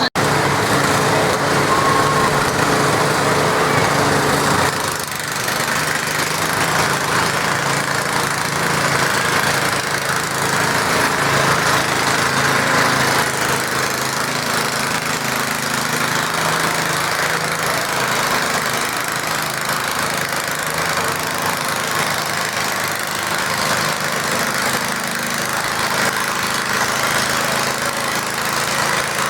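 Garden tractor's small engine running hard and steady, pulling a weight sled, with a brief drop in loudness about five seconds in.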